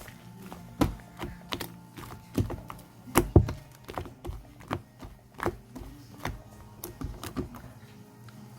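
Sharp, irregular clicks or taps, roughly two a second, over soft background music with steady held notes. The clicks stop near the end.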